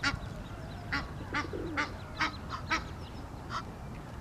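Egyptian geese calling: a series of short, harsh honks, about nine in the span, some coming in quick succession.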